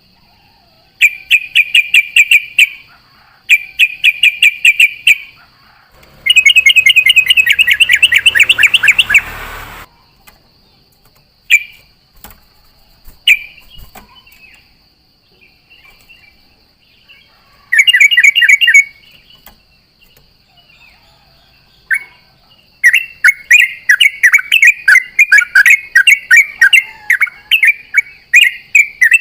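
Yellow-vented bulbul (trucuk) singing in bursts of fast, bubbling repeated notes: several short phrases of a second or two, a few single calls, and a long unbroken run near the end. A faint steady high tone sits underneath.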